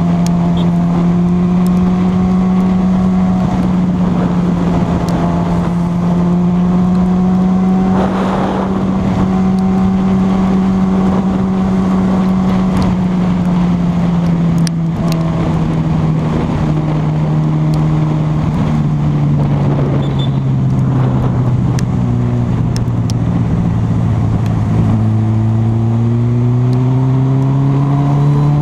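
Honda CB1000R's inline-four engine running while riding, with steady wind and road noise. The engine note holds steady, drops lower as the bike eases off about halfway through, then climbs again near the end as it speeds up.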